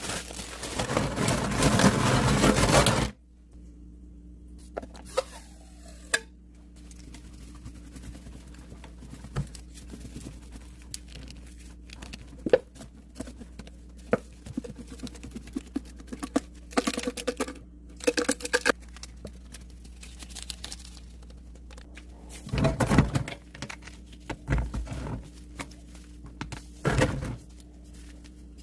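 Bar Keepers Friend cleanser powder being worked by hand for crunchy sounds: a dense crunching run for about the first three seconds, then scattered soft taps and scrapes with a few short crunchy bursts, over a faint steady hum.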